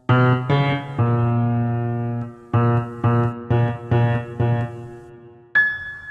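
Sampled 1928 Steinway Scoring Piano played in the Soundpaint sampler with its Color timbre mode. It plays low notes: three quick notes and a held note, then five repeated notes about half a second apart. Near the end a single high, pure bell-like tone is struck and rings on.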